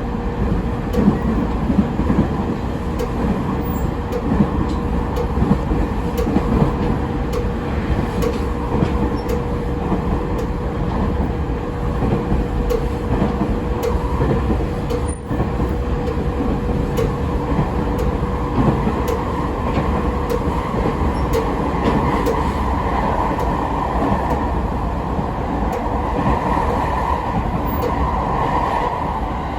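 Running sound of a JR 209 series 3100 subseries electric train under way: a continuous rumble of wheels on rail, a steady hum, and scattered clicks over rail joints.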